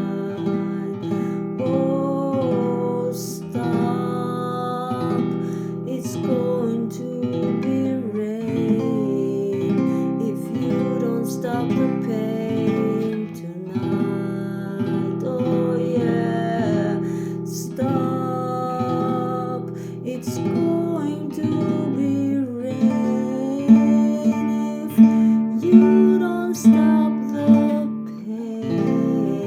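Acoustic guitar strumming steady chords in an instrumental passage of a song, with a wavering melody line above it and louder held notes near the end.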